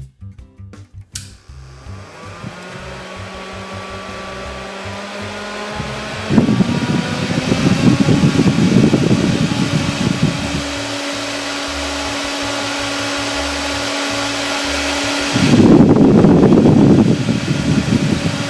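Small rechargeable battery-powered clip fan's motor and blades running, its whine rising in pitch and level as it spins up over the first few seconds, then running steadily. Twice there is a loud rush of air noise, first for about four seconds and then for about two.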